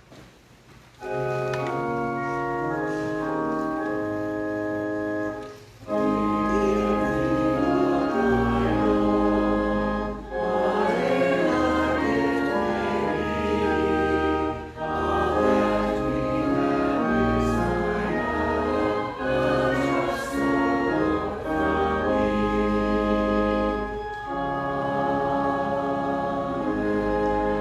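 Church organ playing a hymn, opening with a short introduction about a second in, then the congregation singing with it over full chords and deep bass notes: a short song of dedication for the offering.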